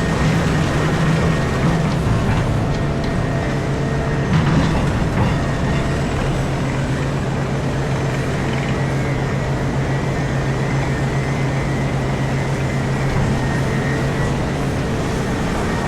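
Komatsu PC4000 mining excavator heard from inside its cab: a steady machine drone with a low hum that holds its pitch, running at an even level.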